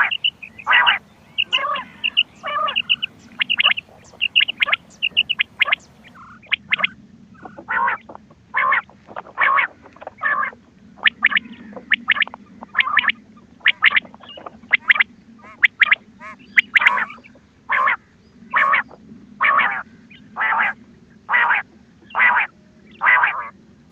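Recorded quail calls played back as a hunting lure. A quick run of short high notes comes first, then a steady series of short, harsh calls at a little more than one a second, over a faint low hum.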